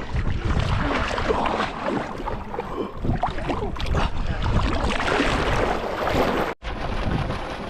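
Wind buffeting the microphone: a steady low rumble with a hiss over it, which cuts out for an instant near the end.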